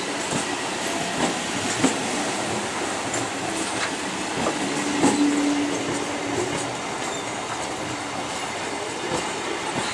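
Electric multiple-unit suburban local train rolling past, its wheels clattering and clicking over the rail joints in an irregular rhythm.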